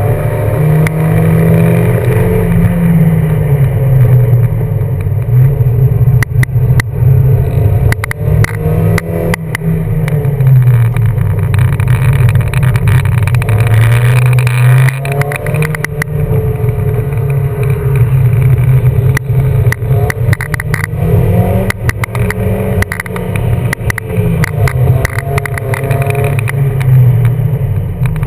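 A BMW's engine driven hard while drifting, revs swinging up and down every few seconds, with frequent short sharp cracks.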